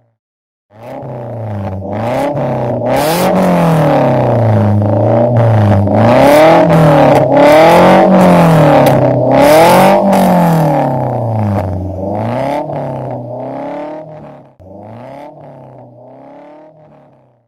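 Vehicle engine fitted with an aftermarket racing exhaust, revved again and again, the pitch rising and falling about every one and a half seconds. It goes quieter in the last few seconds.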